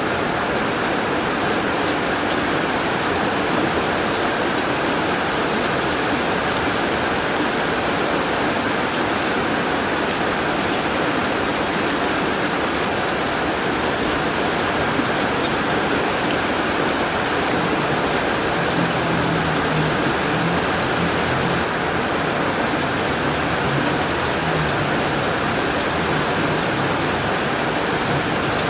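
Steady heavy rain drumming on a tin roof, a dense even patter of drops.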